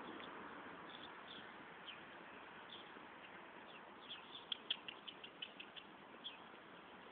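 Faint high chirps of a small bird over a steady background hiss: a few scattered chirps, then a quick run of about ten between four and six seconds in.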